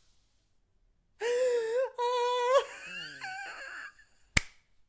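A high-pitched voice wailing: two held, steady wails, then softer wavering sounds. A single sharp click comes near the end.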